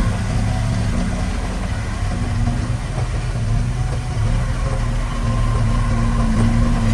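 Heavy diesel engine of earthmoving equipment running steadily at a low, even speed.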